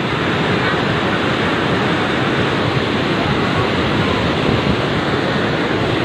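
Steady rushing of fast-flowing floodwater, a dense, even noise that holds without a break.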